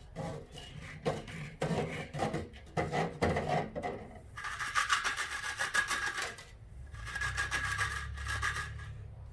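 Small metal carburetor parts being handled as they come out of an ultrasonic cleaner: a run of light clicks and clinks, then a couple of seconds of rattling and scraping.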